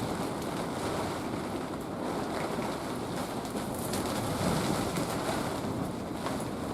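Typhoon wind and rain on a tipi tent, heard from inside: a steady, tremendous rushing that swells briefly about halfway through, with faint patters of rain against the fabric.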